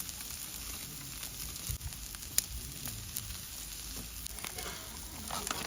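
Food sizzling over a fire, a steady hiss broken by a few sharp crackles.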